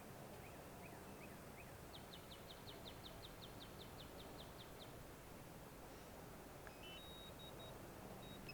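Faint bird song over a low steady background: a few chirps, then a quick run of about a dozen short, even high notes, about four a second, lasting some three seconds.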